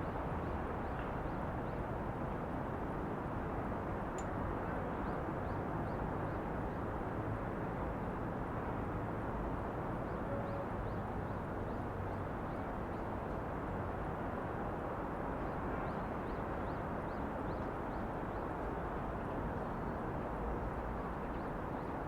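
Outdoor city ambience: a steady wash of distant city noise, with faint short high chirps recurring in runs.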